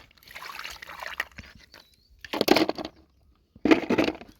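Shallow lake water sloshing and splashing as hands work through it, with two louder splashes, one a little after two seconds in and one near the end.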